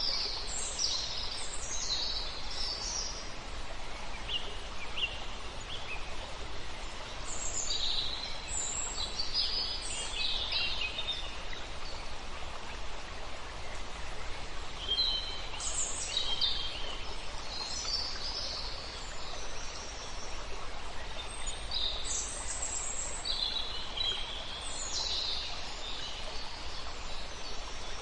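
Several songbirds singing short, high phrases every few seconds over the steady rush of a river.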